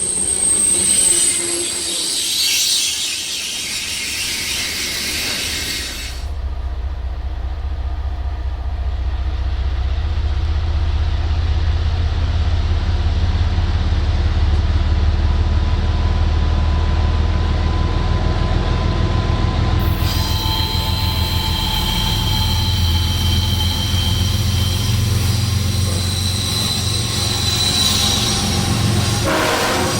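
Freight train passing: a deep, steady rumble of diesel locomotives and rolling cars, with steel wheels squealing in high, steady tones against the rails. The squeal is strongest at the start and again in the last third. The sound changes abruptly about six seconds in and again at about twenty.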